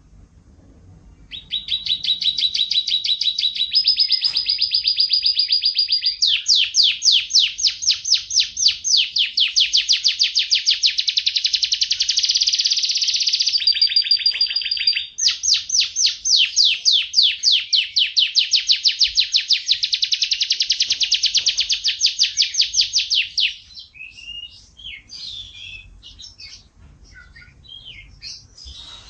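Yorkshire canary singing one long unbroken song of rapid trills and rolls mixed with held whistled notes, starting about a second in and stopping near the end, followed by scattered short chirps.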